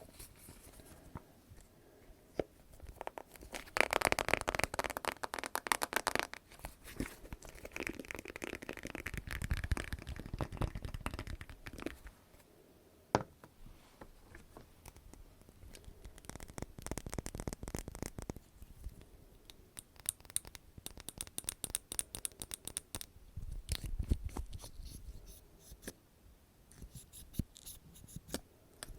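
Close-miked ASMR trigger sounds: several separate spells of scratching and crinkling, with many small clicks throughout.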